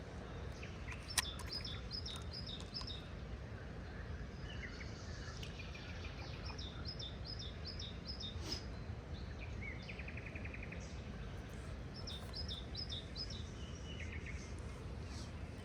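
Wild birdsong: one bird repeats a short phrase of quick high chirps three times, and another gives brief trills, over a steady low rumble. A single sharp click about a second in.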